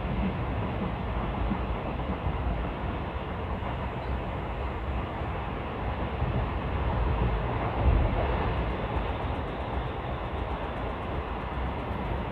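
Passenger train coaches running on the track: a steady rumble and rattle of wheels on rail, swelling louder around seven to eight seconds in.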